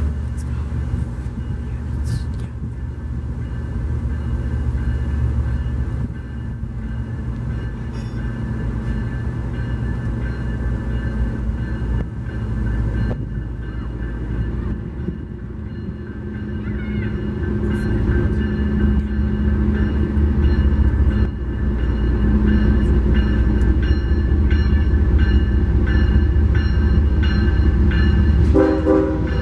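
A train running past, the sound of its locomotives and cars getting louder from about halfway through.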